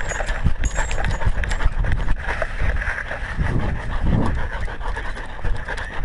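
A dog panting right at a collar-mounted action camera as it walks, with irregular knocks and thuds from the camera jostling on the collar.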